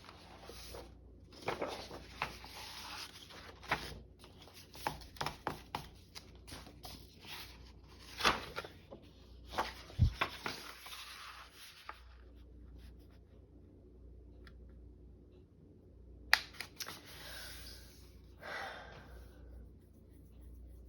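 Sheets of paper being handled and shuffled on a table: rustling with many light taps and clicks, and one dull thump about ten seconds in. A quieter stretch follows, then another sharp tap and more rustling near the end.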